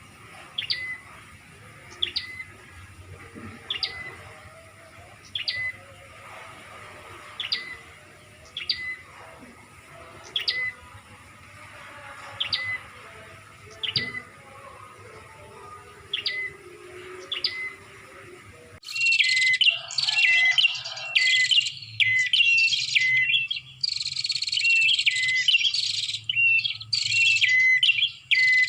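Recorded prinia (prenjak) calls played as a bird lure: single short, sharp call notes about once a second. About nineteen seconds in, the sound switches abruptly to a louder, rapid, continuous chattering of calls.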